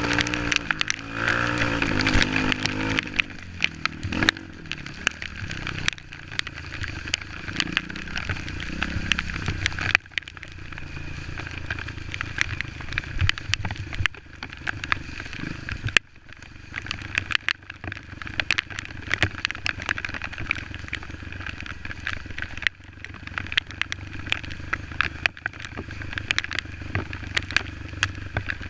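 Small off-road trail motorcycle engine running, its pitch rising and falling with the throttle near the start, with many sharp knocks and clattering throughout.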